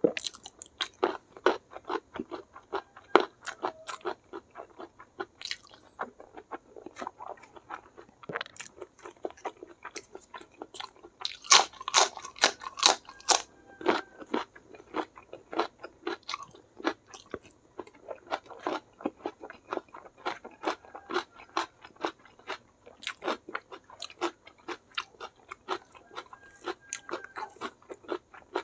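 Close-up eating sounds: chewing rice and food with many small wet clicks of the mouth. About halfway through comes a run of loud, crisp crunches as a raw green vegetable is bitten.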